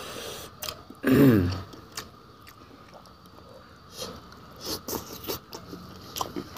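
A person chewing and biting food, with soft scattered crunches and clicks. About a second in comes a short, loud vocal sound that falls in pitch, like a grunt or throat noise.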